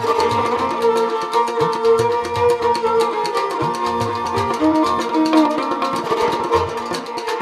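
Rajasthani folk instrumental music: a kamaicha playing a melody over steady drone notes, with a morchang jaw harp twanging a fast, even rhythm.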